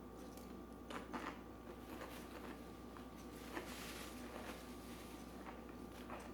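Faint eating sounds over quiet room tone, with a few soft clicks about one, two and three and a half seconds in.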